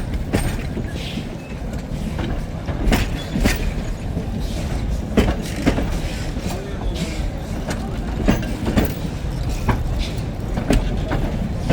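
Heritage train running past: a steady low rumble with irregular clanks and clicks from the wheels and rolling stock.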